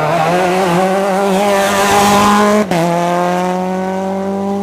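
Rally car engine accelerating hard, its note climbing steadily for about two and a half seconds. Then the pitch drops abruptly and starts climbing again more slowly.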